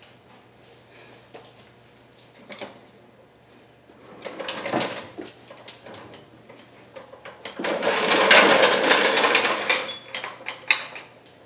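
Hand tools clicking, knocking and rattling against metal engine parts, with a louder stretch of rapid rattling from about eight to ten seconds in.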